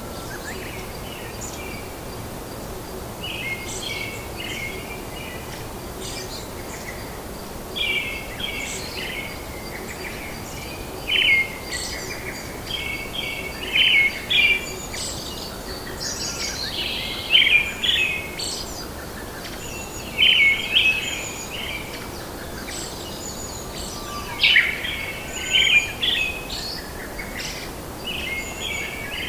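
Birds singing and calling over a steady background hiss, with many short chirping phrases repeating every second or two and a faint continuous insect-like trill.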